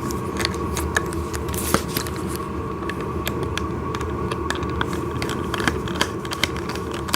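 Scattered small clicks and taps of hands turning out the screw and bolt on a plastic toy ride-on tractor's steering shaft, over a steady background hum.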